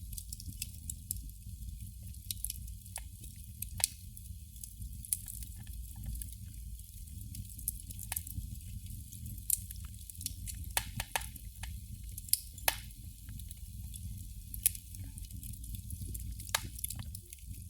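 Candle flame crackling: small pops and clicks at irregular intervals, a few sharper than the rest, over a steady low rumble.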